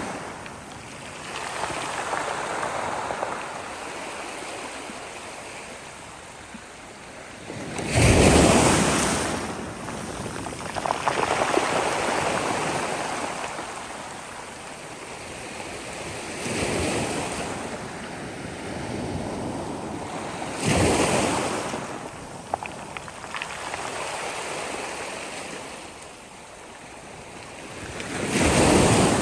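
Sea waves breaking on a shore: a steady wash of surf with a louder breaking rush every few seconds, the loudest about eight seconds in.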